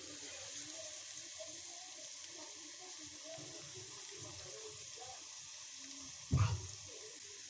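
Scrambled egg and chopped vegetables sizzling in oil in a steel kadai, a steady hiss. A single knock sounds about six seconds in.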